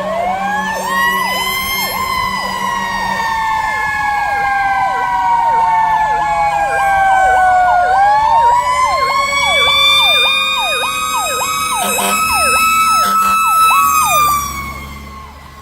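Emergency vehicle sirens on responding fire apparatus: a slow-winding siren rises, falls over several seconds and rises again, while an electronic siren sweeps rapidly underneath about twice a second. A couple of short blasts sound late on, and the slow siren winds down near the end while the electronic one carries on.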